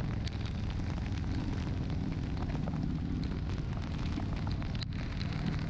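Honda Shadow 750's V-twin engine running steadily under a motorcycle ride, with a constant low pulsing engine sound and a haze of wind and road noise over it.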